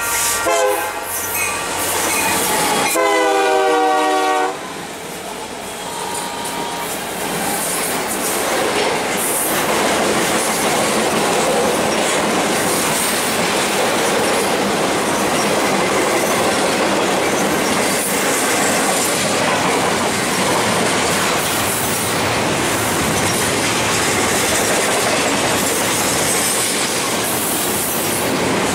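Union Pacific freight locomotive's multi-chime air horn sounding, its pitch dropping as the lead engine passes, then one more loud blast about three seconds in. After that comes the steady rumble and clatter of a long intermodal train's flatcars rolling past, loaded with trailers and double-stacked containers.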